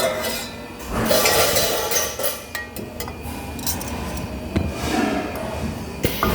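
Metal pieces clinking and knocking against each other in irregular strokes, over a steady background of shop noise.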